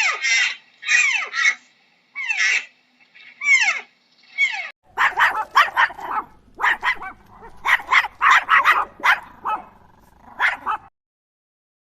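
A dog making a series of falling-pitch whines about a second apart, then breaking into a quick run of short barks that stops shortly before the end.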